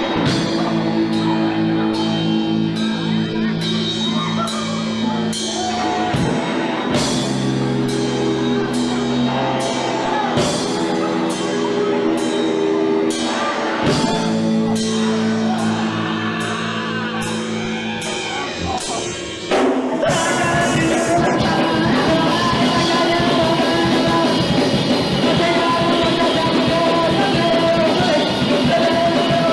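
Live punk rock band playing: sustained guitar chords over steady drum hits, with some vocals. About two-thirds of the way through, the band breaks into a louder, denser, faster passage.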